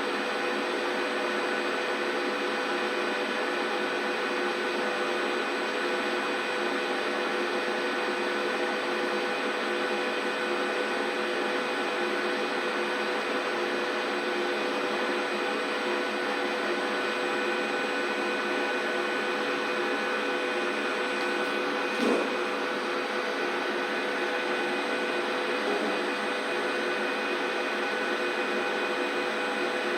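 Large 39 kg commercial washing machine running with a steady mechanical hum, with a single click about 22 seconds in.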